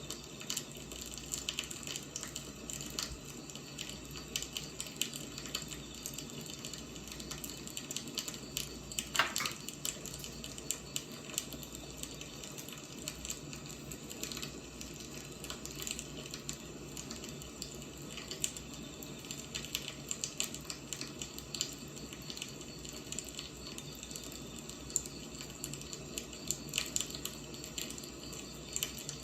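Wood fire burning: a steady soft hiss with frequent small crackles and pops, and one louder pop about nine seconds in.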